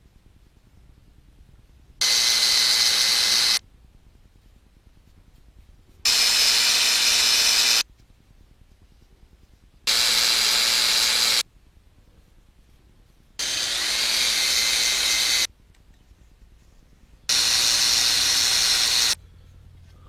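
Electric drill running in five separate bursts of about two seconds each, drilling holes through thin L-angle metal stock.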